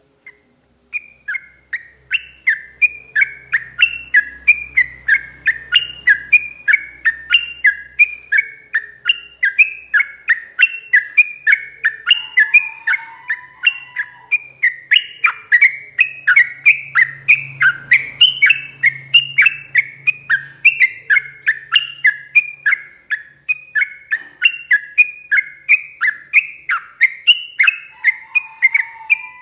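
Sooty-headed bulbul (trucuk) singing a long, rapid run of short, falling whistled notes, about three a second, starting about a second in. A softer, lower warble comes in briefly twice.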